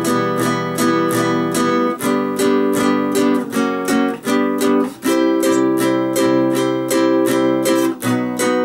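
Acoustic guitar strummed slowly in an even rhythm of about three or four strokes a second, playing the intro's progression Em–G–F#–G, the chord changing every one to three seconds.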